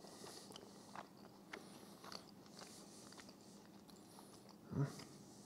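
A man quietly chewing a bite of Wagyu steak: faint soft mouth smacks and clicks every half second or so, with one louder short sound near the end.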